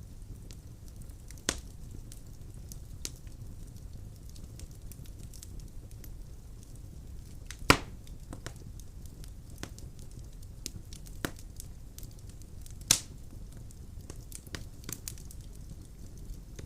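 Firewood crackling in a fireplace: scattered sharp pops and snaps over a low steady rumble of the flames, with a few much louder pops, the loudest near the middle.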